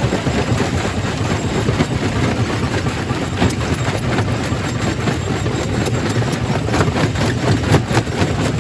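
Quarry primary rock crusher running with a steady low drone, stones knocking and cracking in it, the knocks coming thicker in the second half.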